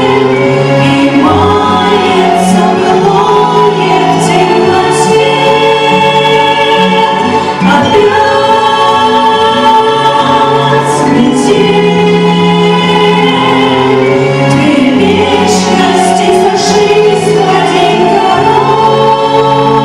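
Choir singing with held, sustained notes over a steady musical accompaniment.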